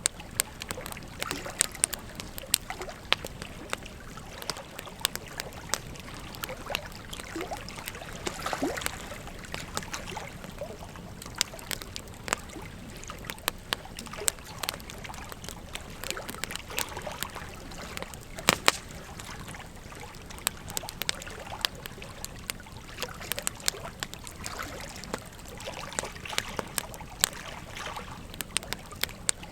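Wood fire crackling, with frequent irregular sharp pops, over the steady rush of a flowing river.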